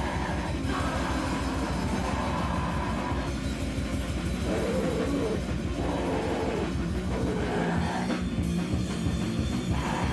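Live band playing loud, dense rock music, with drum kit and distorted guitar running without a break.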